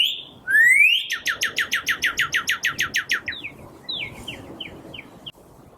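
Northern cardinal singing: two rising whistles, then a fast run of falling chirps, about nine a second, then a few slower falling notes, over a faint background hiss.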